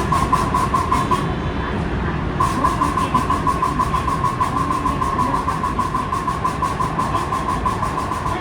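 Rapid, even 'ka, ka, ka' clacking from under the floor of a JR West 223 series 1000 subseries train, about five sharp knocks a second over the train's low running rumble. The knocking stops about a second in and starts again just over two seconds in. It is an abnormal noise that seems to come from the air compressor; its true cause is unknown.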